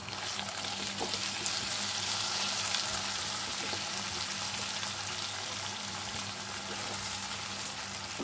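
Onion, tomato and spice paste sizzling in a non-stick frying pan while being stirred with a silicone spatula; the sizzle is loudest about two seconds in. A low steady hum runs underneath.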